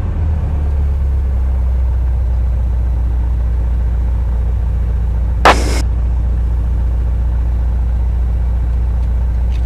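Van's RV-8's piston aircraft engine running steadily at low power on the ground, a low, even drone. About five and a half seconds in there is one brief burst of hiss.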